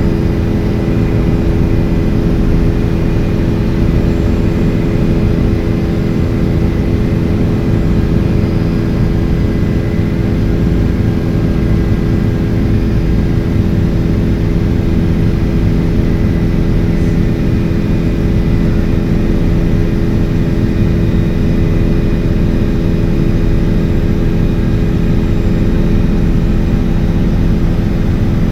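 Helicopter in flight: a steady, loud drone of engine and rotors with several held tones and a low rumble underneath, unchanging throughout.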